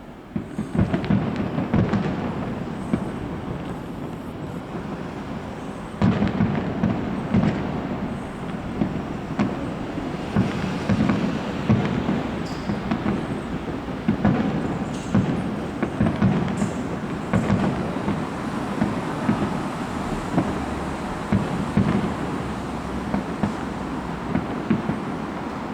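Fireworks display: a dense barrage of bangs and booms with crackle over a rumbling haze, stepping up abruptly about six seconds in.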